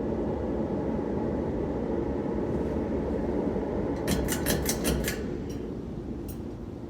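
Emerson Premium 52-inch ceiling fan running with a steady airy whoosh. About four seconds in comes a quick rattle of clicks as it is switched off, and the whoosh then slowly fades as the fan begins to spin down.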